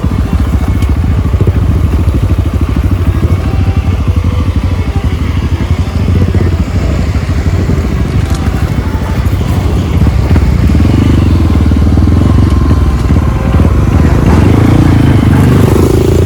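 Trail motorcycle engine running as the bike is ridden, getting louder about ten seconds in.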